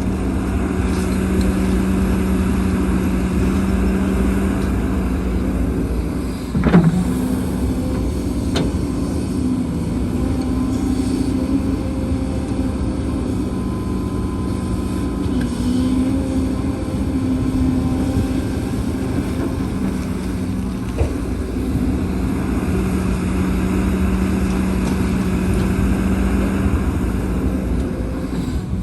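Heavy diesel earth-moving machinery, an excavator working with dump trucks, running steadily with a droning engine note that shifts a little in pitch. A single sharp, loud knock comes about seven seconds in, and a fainter one shortly after.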